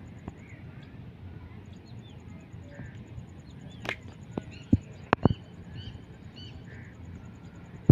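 Birds chirping in short calls over a steady low background hum, with a cluster of about five sharp knocks about halfway through.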